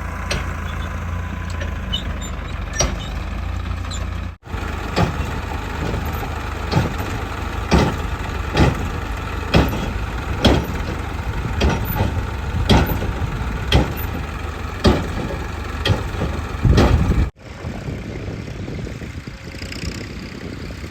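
Heavy diesel machinery engine running steadily, with a series of sharp metal knocks or clanks about once a second through the middle. The sound drops out abruptly twice, and it is quieter after the second cut.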